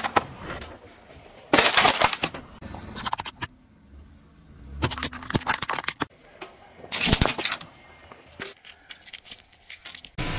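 Crunching and cracking of brittle objects being crushed under a car tyre, in about four separate bursts with scattered sharp crackles after them.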